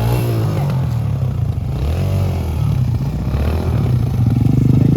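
Small pit bike engine running and revving, its pitch rising and falling.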